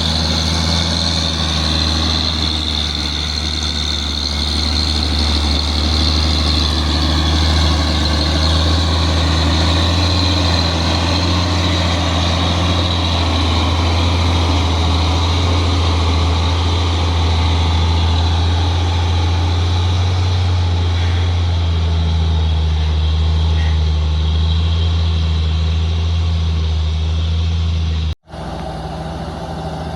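Heavy diesel truck engine pulling under load, a steady low drone. The sound cuts out abruptly for a moment near the end and comes back quieter.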